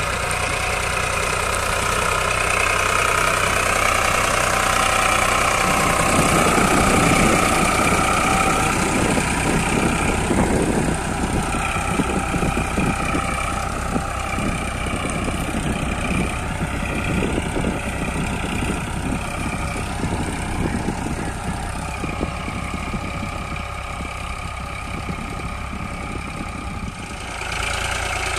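Eicher 551 tractor's diesel engine running steadily under load while pulling a disc plough through the soil. Its pitch wavers slightly, and the tone shifts a couple of times, with a brief dip near the end.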